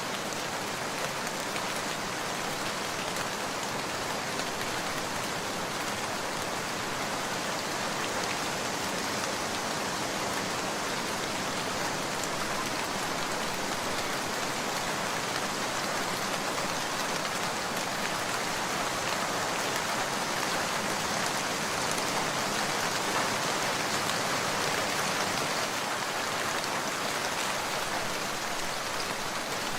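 Steady rain: an even hiss of many small drops with fine ticks, holding one level with no thunder or other sudden event.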